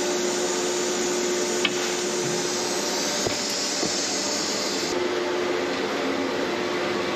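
Packing-line machinery running steadily with a constant hum and a hiss, one sharp click a little under two seconds in; the hiss drops away about five seconds in.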